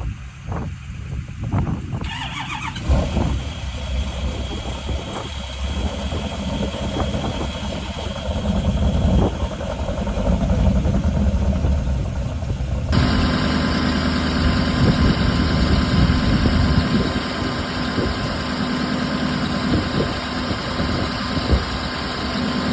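Diesel pickup truck engine being cold-started and running. About 13 seconds in the sound changes abruptly to a steadier engine run with an even hum.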